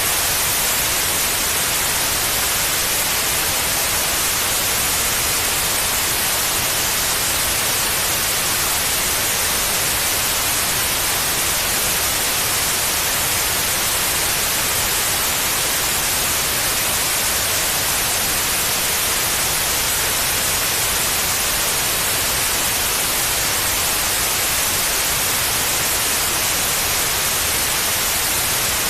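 Steady white noise: an even, unchanging hiss across the whole range, brightest in the highs, played as a sleep aid for babies.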